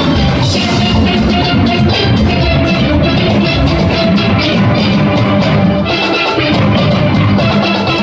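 A steel band playing at full ensemble: many steel pans ringing out a fast tune over a drum kit and rhythm section.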